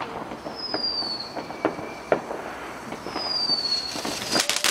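Fireworks going off: scattered pops and bangs with short, high whistles that dip slightly in pitch. A dense crackling firework breaks out near the end.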